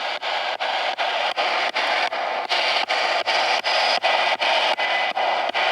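Spirit box sweeping through radio stations: hissing static cut by short clicks about four or five times a second as it jumps from channel to channel.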